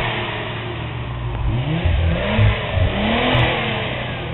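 Nissan V6 sports car with an aftermarket exhaust, revved in several quick blips from about a second and a half in, each rising and falling in pitch. The largest blip comes a little after three seconds.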